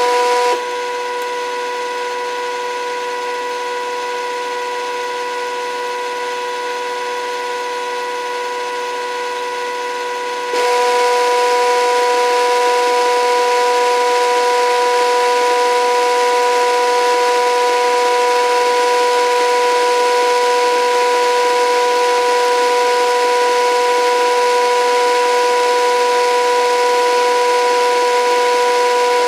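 Modified toy washing machine's 775 DC motor, driven by PWM speed control through a belt to the flywheel, running with a steady electric whine. About half a second in the whine drops quieter and lower as the motor changes speed, and about ten seconds later it jumps back to the louder, higher whine.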